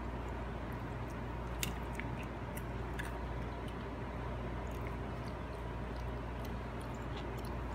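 A toddler biting and chewing SkyFlakes soda crackers, with a few small, sharp crunches scattered through, over a steady background hum.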